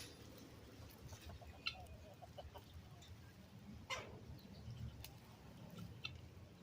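Faint, soft clucks from a peacock, with scattered light clicks and one sharper click about four seconds in.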